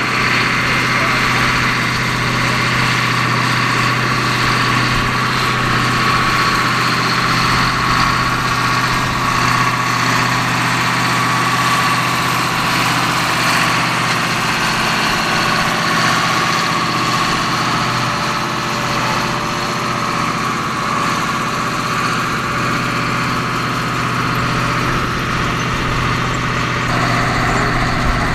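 1968 Versatile 145 four-wheel-drive tractor's engine running steadily, pulling a cultivator up the field.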